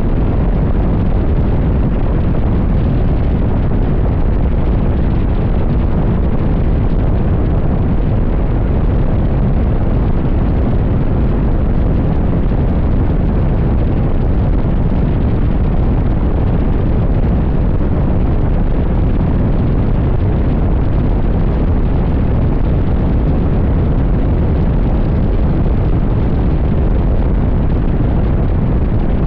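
Wind buffeting the microphone of a motorcycle at highway speed: a loud, steady, deep rumble with no clear engine note above it.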